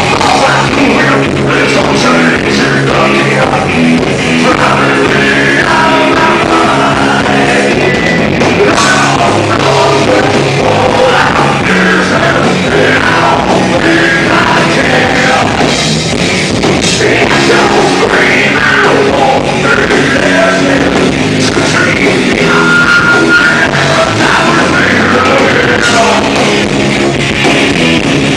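A rock band playing live, loud and steady, with a singer's voice over the drums and guitars.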